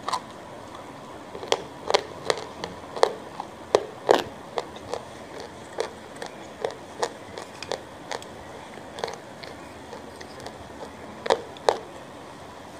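Close-miked chewing: wet, smacking clicks of a mouth working a mouthful of food, coming irregularly, thickest in the first few seconds, sparse in the middle and picking up again near the end.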